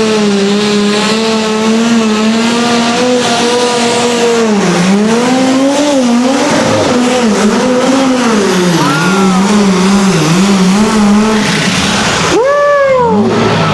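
A pulling tractor's engine running hard at high revs, its pitch holding steady at first and then dipping and wavering. Near the end it breaks off abruptly, then comes a quick rising-and-falling whine.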